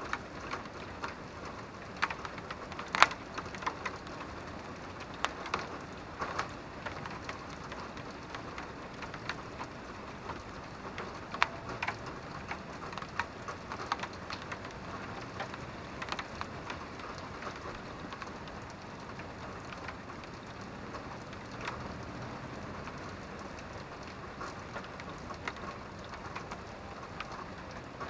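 Steady rain, with close raindrops landing in irregular sharp taps over the even patter, a few of them louder, about 3 seconds in and again near 11 seconds.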